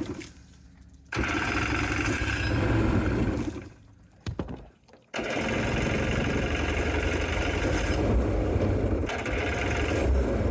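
Jet-boat engine running loud, stopping abruptly near the start, running again from about a second in, dying away around four seconds in and starting up again at about five seconds. The engine is not yet running well, with a throttle problem that let it go to full throttle.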